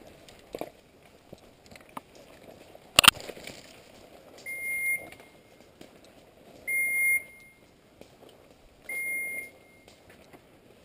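A gun dog's beeper collar sounding a short high beep about every two seconds, the regular beep that signals the dog is standing on point. About three seconds in there is a single sharp loud snap.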